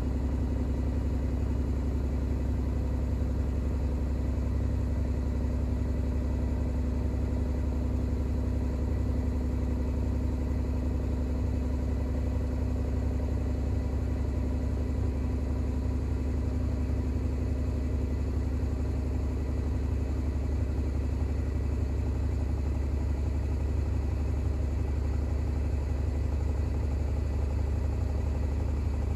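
Bosch WAX32GH1 front-loading washing machine in its intermediate spin with an unbalanced load of towels: a steady motor and drum hum with a low drone, running evenly without changes.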